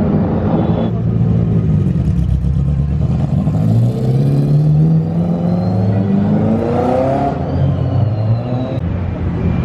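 Car engine revving up as the car pulls away: its pitch climbs over about four seconds, then drops off as the throttle closes.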